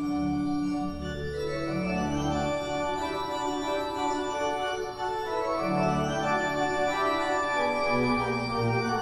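Church pipe organ playing sustained chords over a deep bass, the harmony shifting every second or so.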